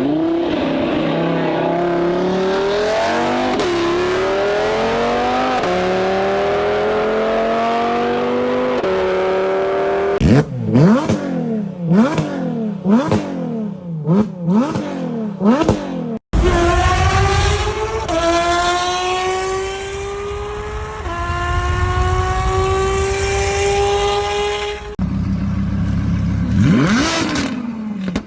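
A sequence of sports-car engine clips: first a car accelerating hard through the gears, its note climbing and dropping at each upshift; then about six quick sharp revs that rise and fall; then, after an abrupt cut, another car pulling hard through several upshifts, with one more rev near the end.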